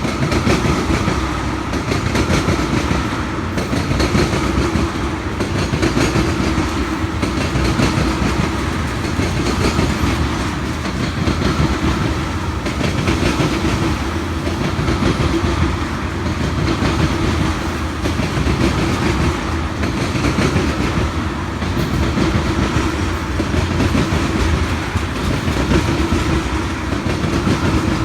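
A long train rolling past on the rails, the wheels running steadily over the track without a break.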